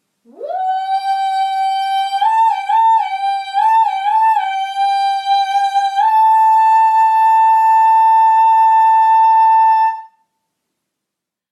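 A high woman's voice singing into a tonoscope: a quick scoop up to a held note with a few small up-and-down turns, then a step up to a higher note held steady for about four seconds before stopping.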